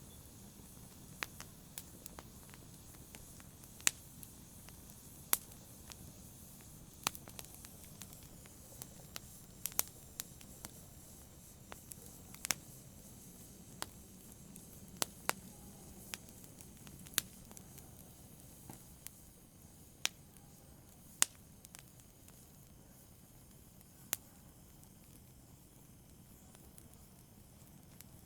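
Wood fire crackling: irregular sharp pops and snaps over a faint low hiss of burning, several pops standing out louder than the rest.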